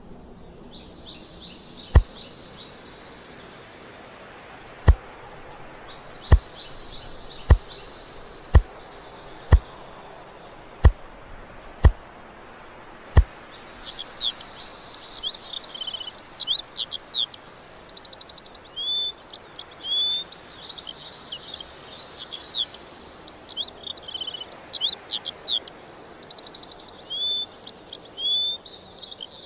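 Songbirds chirping and singing, with nine sharp knocks spaced a second or two apart in the first half. From about halfway the birdsong grows busy, with quick high whistled sweeps and fast repeated notes.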